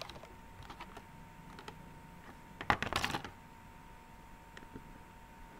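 Small clicks and rattles of plastic toy parts being handled and fitted together, with a short flurry of clicking about three seconds in.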